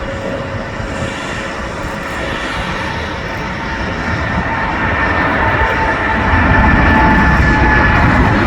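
Airliner engines running, a steady rumble with a thin whine that drifts slightly lower in pitch, growing louder about halfway through as the aircraft comes closer.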